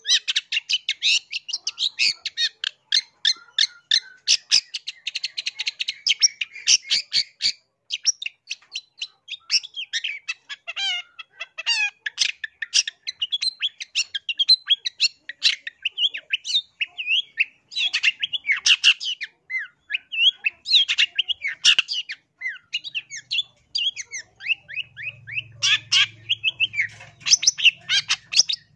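Long-tailed shrike (cendet) singing: a fast, chattering stream of rapid high notes and short squeaky glides, broken by a couple of brief pauses.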